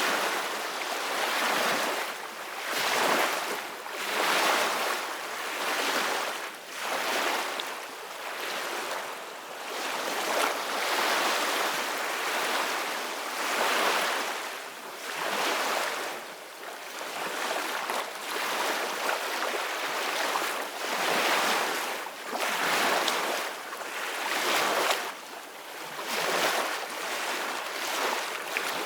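Ocean waves breaking on a shore, a steady wash of surf that swells and ebbs every few seconds.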